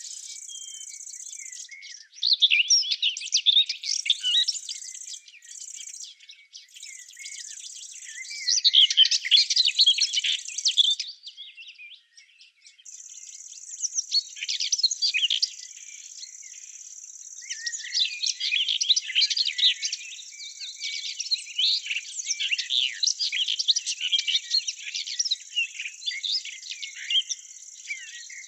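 Small songbirds singing in rapid twittering phrases over a steady high-pitched buzz, with a brief pause a little before the middle.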